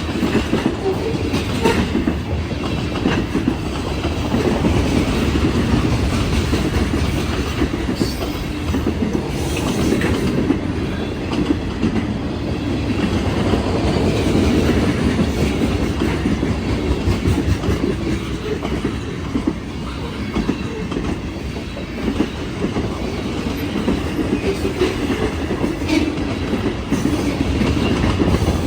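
A train rolling past, steel wheels running on the rails in a steady rumble with scattered clicks.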